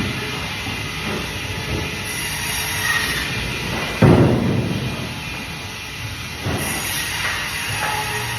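Band saw running steadily while fish is cut, with one loud thump about four seconds in and a smaller knock a couple of seconds later.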